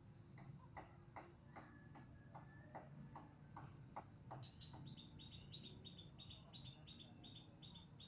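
Faint calls of frogs and birds: a train of sharp clicking calls at about two or three a second, then from about halfway a rapid run of high, short chirps at about four or five a second.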